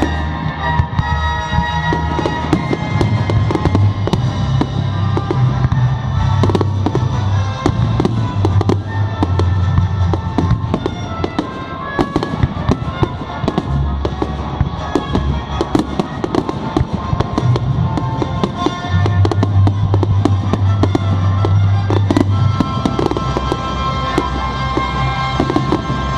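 Fireworks display: a dense run of bangs and crackling reports in quick succession, over loud music with sustained bass notes played along with the display.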